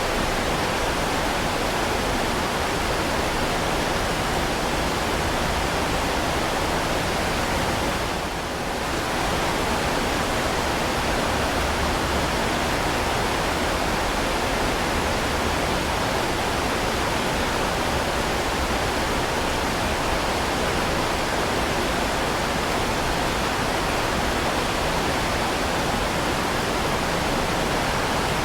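Heavy rain falling steadily, a dense, even hiss with no separate drops standing out, dipping briefly about eight seconds in.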